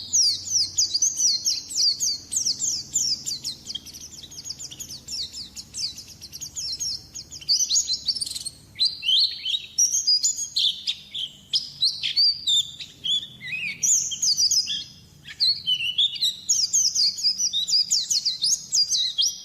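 Pleci (white-eye) song: a fast, continuous high-pitched warbling made of rapid down-slurred chirps, with a brief pause about fifteen seconds in.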